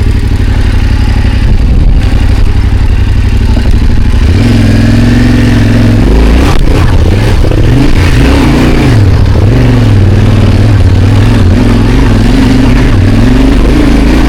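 Motorcycle engine running at low speed on rough off-road track, steady at first, then its revs rising and falling again and again from about four seconds in as the rider works over the rough ground.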